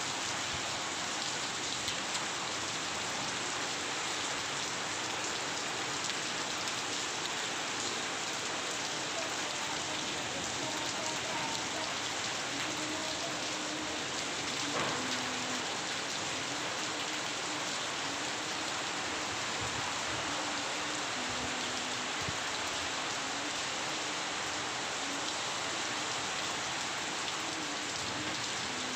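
Steady rain falling and pattering on surfaces, an even continuous hiss.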